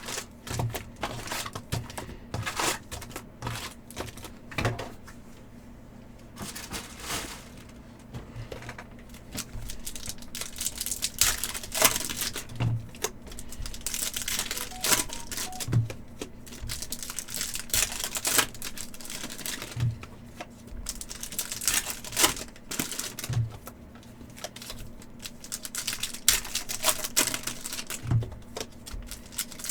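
Upper Deck hockey card packs being opened and handled: foil wrappers crinkling and tearing, with irregular clicks and taps of cards and cardboard throughout. A faint steady hum runs underneath.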